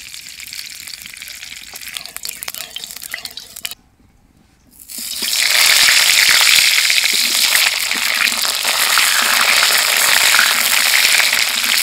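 Peeled potatoes frying in hot oil with cumin seeds in a kadai. A quieter sizzle with crackles breaks off about four seconds in. Then loud, steady sizzling runs from about five seconds in.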